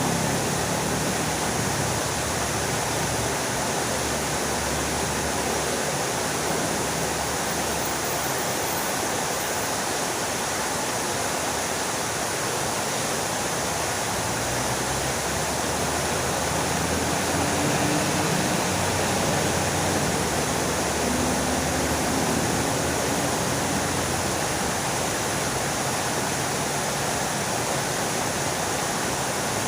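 Fountain water splashing and falling steadily.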